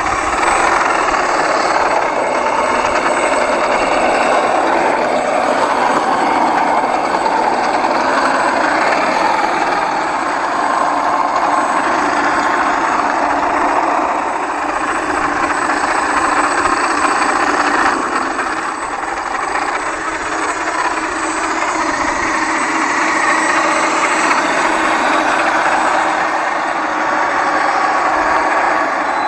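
Loud, steady machine noise, continuous throughout.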